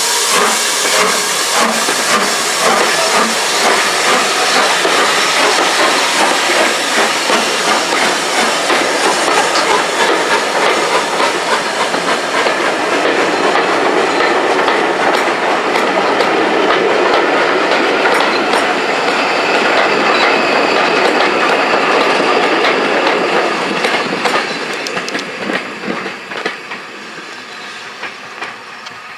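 Steam-hauled train running past, its carriage wheels clicking over the rail joints, with some hiss; the sound fades away over the last few seconds as the train draws off.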